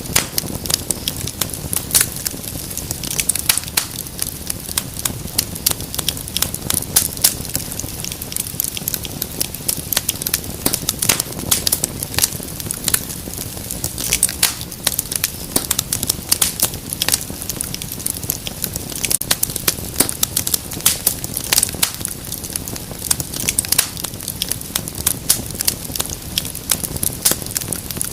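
Wood fire crackling steadily, with many irregular sharp pops and snaps over a low rumble of flames.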